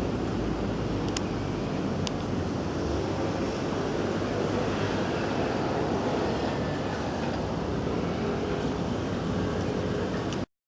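Steady rumbling background noise with two light clicks, about one and two seconds in; it cuts off suddenly near the end.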